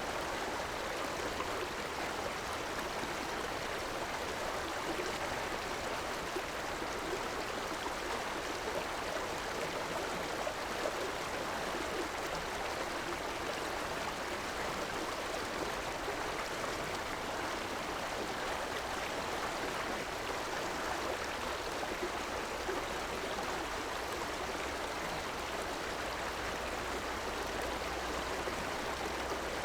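River water flowing steadily, an even rushing with a light gurgle.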